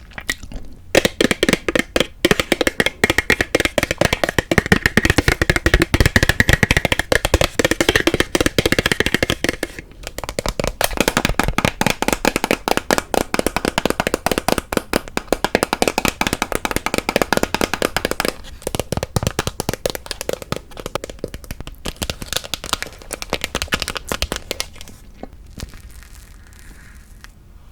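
Close-miked crinkling and crackling of plastic packaging being handled, a dense rapid crackle that starts about a second in, thins out in the second half and fades out near the end.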